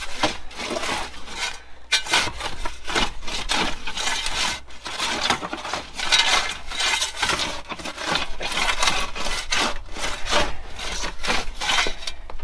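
Shovels scraping and scooping dirt, a steady run of irregular gritty strokes as a trench is backfilled.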